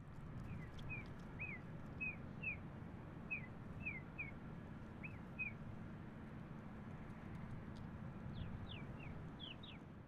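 Small birds chirping: short, high, downward-sliding chirps, a run of them in the first half and a quicker cluster near the end, over a steady low rumble.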